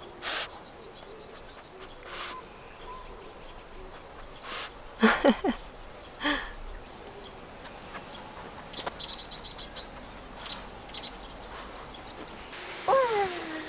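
Small wild birds chirping outside, with a couple of short high calls and, later, a quick trill of rapidly repeated notes. A few soft knocks and a short low falling sound about five seconds in.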